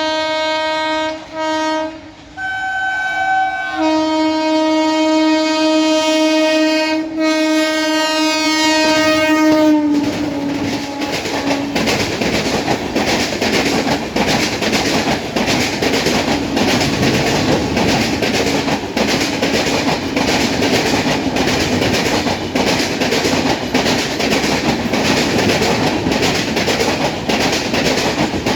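Locomotive horn sounding a few short blasts and then one long blast that drops in pitch as the train reaches the microphone. An express train follows, rushing past at speed with the wheels clattering steadily over the rails.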